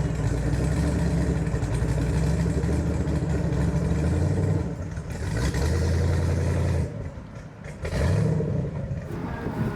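An engine running steadily at a boat ramp, fading about seven seconds in, then revving briefly about a second later.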